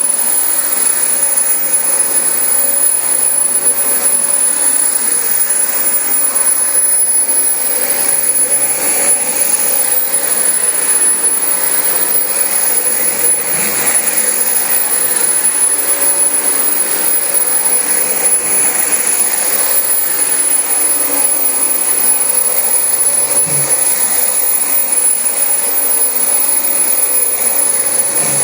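Dyson DC25 upright vacuum cleaner running continuously over carpet: a loud, steady whine of motor and rushing air.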